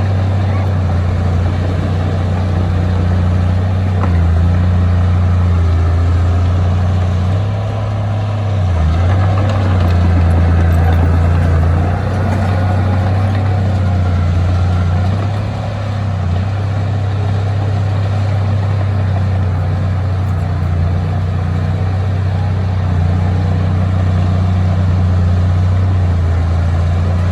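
Heavy diesel engine of earthmoving equipment running steadily with a deep, low drone that eases briefly a few times as the load changes.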